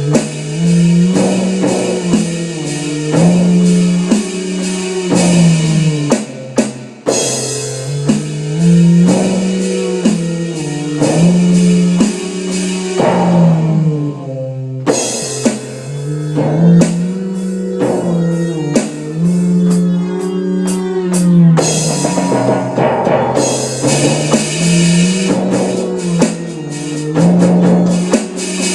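Rock music with drum kit, bass and guitar, built on a repeating bass riff with brief breaks between sections.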